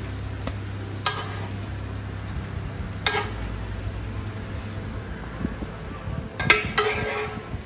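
Zucchini fritters sizzling in shallow oil in a metal tray, with a few sharp clicks and scrapes as a spatula lifts them out: one about a second in, one about three seconds in, and a cluster near the end.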